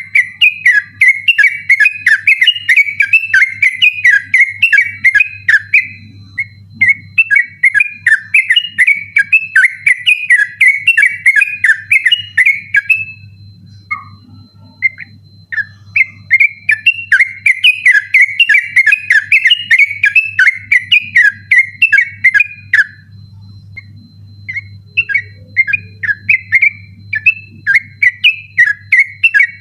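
Yellow-vented bulbul (trucukan) singing in a fast, unbroken 'ropel' style: long runs of quick chattering whistled notes, each run lasting several seconds, with a short pause about halfway through and another near the end. A faint steady hum runs underneath.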